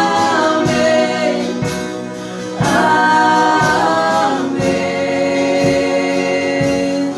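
Gospel choir singing held notes over a steady beat, in a worship song.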